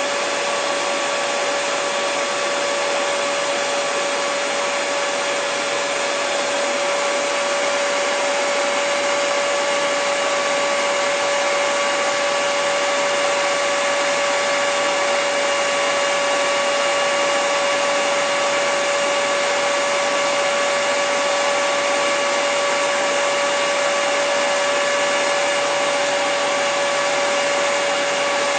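Hair dryer running steadily: an even rush of blown air with a steady motor whine under it.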